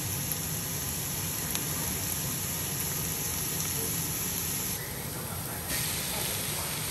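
Sliced onions and chopped garlic sizzling steadily in hot oil in a wok, with a brief dip about five seconds in.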